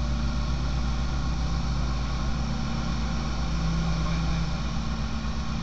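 Light aircraft's piston engine running steadily, a continuous low hum with no change in power.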